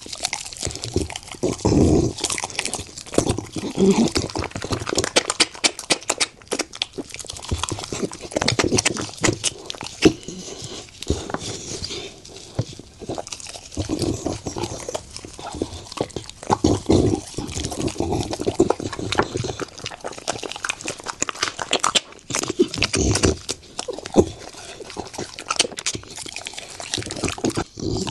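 Bully-breed dog chewing and crunching a crocodile leg: many irregular crackling bites, with heavier crunches every second or two.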